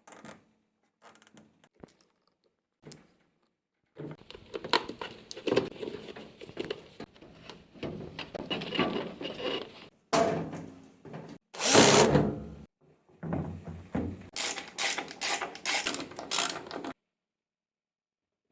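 A few faint clicks, then a long run of irregular knocking and clattering of hard parts being handled, loudest about two-thirds of the way through, stopping abruptly near the end.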